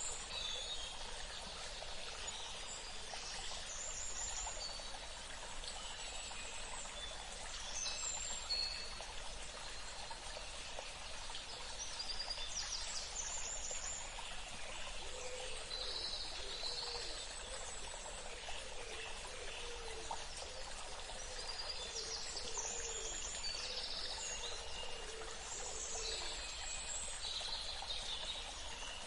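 Steadily running water, like a small stream trickling, with birds calling: clusters of short, high chirps and trills every few seconds. Faint, low, repeated notes join in about halfway through.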